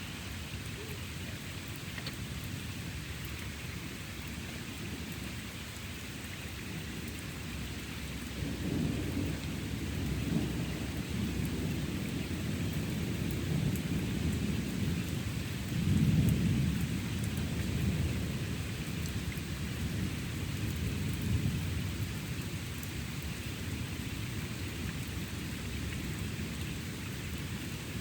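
Steady rain falling, with a long roll of thunder that rumbles in about a third of the way through, is loudest a little past halfway, then fades away.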